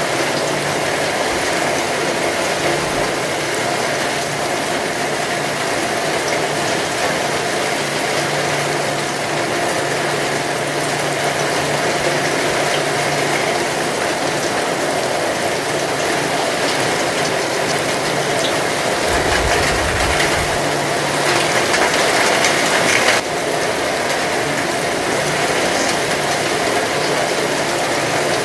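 Heavy rain falling steadily, a dense even hiss of drops. It swells a little about three-quarters of the way through, then drops back suddenly.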